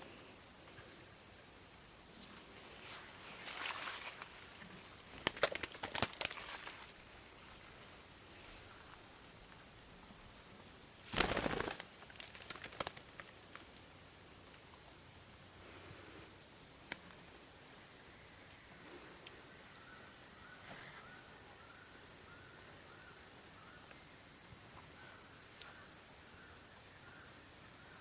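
Steady high-pitched insect buzzing, pulsing fast, with a few brief noisy rustles, the loudest about eleven seconds in. Later comes a run of short, soft chirps, about one a second.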